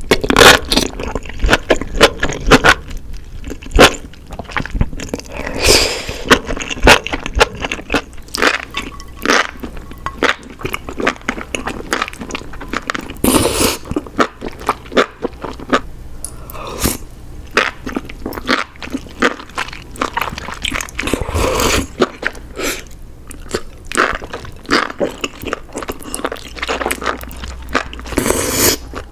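Close-miked eating of spicy enoki mushrooms: a steady run of wet, quick chewing and biting clicks, with a few short louder bursts along the way.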